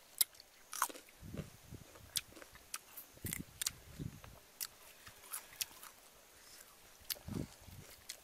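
Biting into and chewing crisp raw green mango: crunching with many sharp clicks, with heavier chews between one and four seconds in and again near the end.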